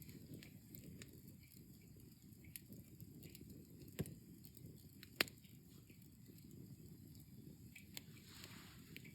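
Wood campfire burning down to embers: a faint low fire rumble with scattered small crackles and two sharp pops, about four and five seconds in. A brief soft hiss follows near the end.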